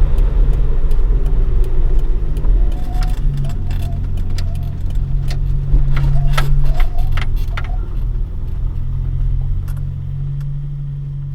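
Toyota AE86 Sprinter Trueno with a swapped AE111 20-valve 4A-GE on four individual throttles, running at low revs on a steady engine note and easing off toward the end. A run of light clicks and rattles from the cabin comes in the middle.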